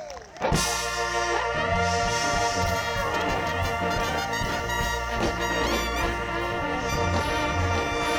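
Live band with a horn section of trumpet, trombone and saxophone playing a loud instrumental passage over drums, bass and keyboard. The full band comes in together about half a second in, after a brief break.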